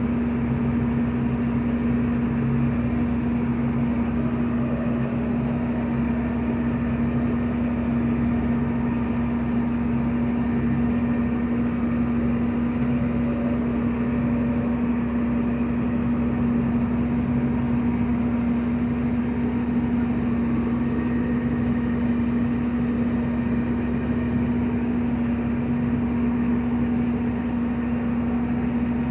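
Heavy farm harvest machinery running steadily: an unchanging engine drone with a strong constant hum.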